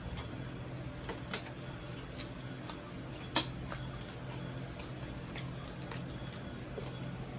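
Scattered light clicks and taps of utensils on a plate or food container as eating finishes, one sharper click a little before the middle, over a steady low hum.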